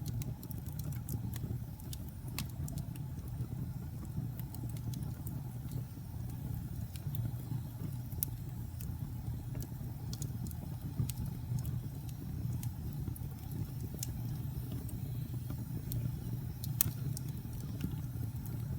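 Wood fire in a fireplace burning with a steady low rumble, with scattered sharp crackles and pops, a louder pop near the end.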